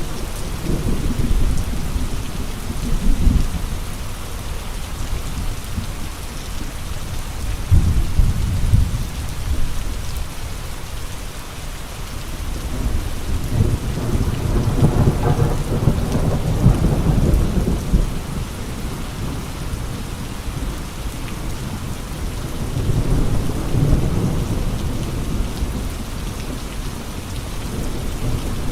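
Heavy rain and gusting wind: a steady hiss of rain with low rumbling swells every several seconds, the longest about midway.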